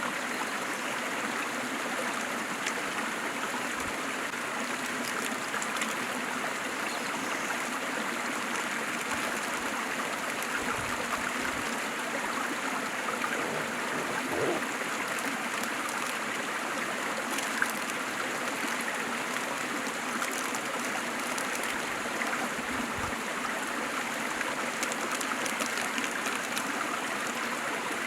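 Waterfall and stream water rushing steadily, with a little trickling and gurgling.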